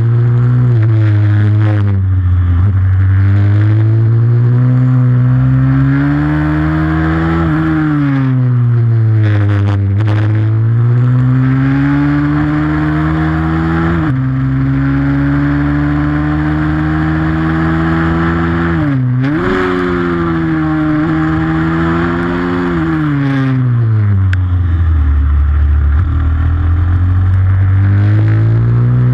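Racing pit bike's single-cylinder four-stroke engine working hard, its pitch repeatedly climbing under acceleration and dropping away under braking, with a few sudden steps in pitch at gear changes. The lowest point comes about three-quarters through, before it climbs again. A constant rush of wind noise lies under the engine.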